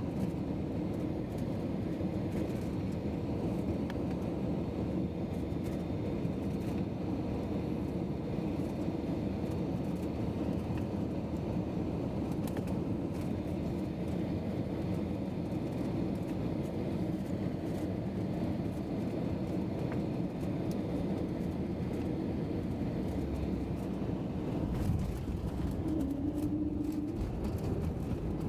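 Steady rumble of an airliner's engines on landing, unbroken throughout, with a short higher tone near the end.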